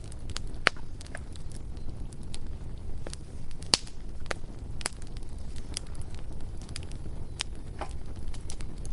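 Bonfire crackling, with irregular sharp pops from the burning wood over a steady low rumble; the loudest pop comes a little under four seconds in.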